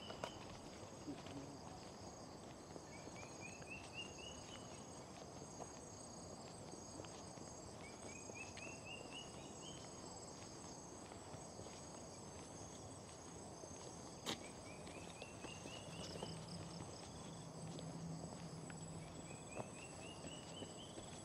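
Jungle insects buzzing steadily and faintly, with a short call of quickly rising notes repeated about every five seconds.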